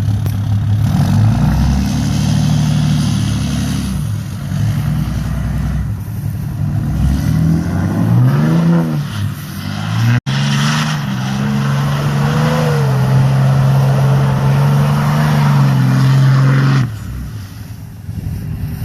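Dodge Cummins 6.7-litre inline-six turbo diesel with a full exhaust being driven hard: the revs dip and climb again about halfway through, then hold high and steady before dropping off sharply near the end.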